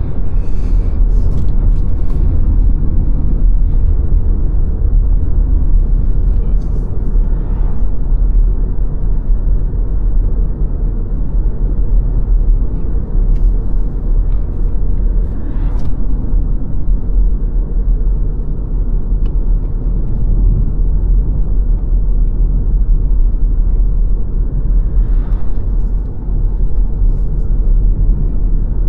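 Car driving along a road: a steady low rumble of tyres and engine, with a few faint brief swishes over it.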